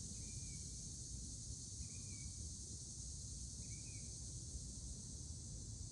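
Faint outdoor insect chorus as a steady high hiss, with a short chirp repeating about every two seconds.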